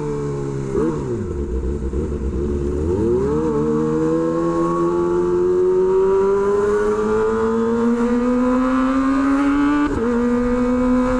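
Kawasaki Ninja ZX-25R's inline-four engine through an aftermarket SC Project exhaust, riding under way. Its pitch drops and comes back up twice in the first few seconds, then climbs slowly as the bike accelerates, with a sudden change in pitch near the end as from a gear change.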